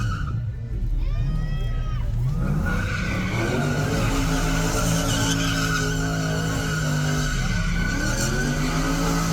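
Car doing a burnout: the engine is held at high revs while the tires spin and squeal. The revs drop and climb back briefly just after the start and again about seven and a half seconds in.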